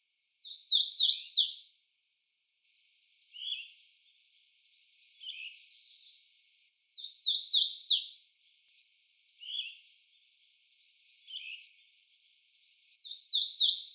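Hooded warbler singing its loud song three times, about six seconds apart: a quick run of repeated slurred notes ending in an emphatic rising note. Between its songs a yellow-throated vireo sings fainter, short buzzy phrases with long pauses.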